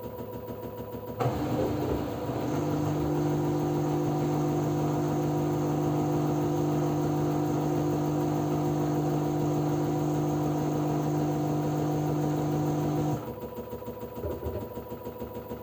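LG F10B9LD front-loading washing machine during its spin phase. A louder steady hum with several held tones and a rush of noise comes in suddenly about a second in and cuts off suddenly about 13 seconds in, leaving the quieter machine running underneath.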